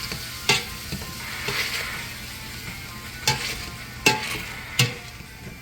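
Food sizzling in a pan as it is stirred, with several sharp knocks of the utensil against the pan.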